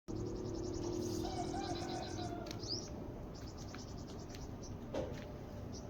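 A fast, high, cricket-like trill for about the first two seconds, with short high bird chirps, one under three seconds in, over a steady low background hum.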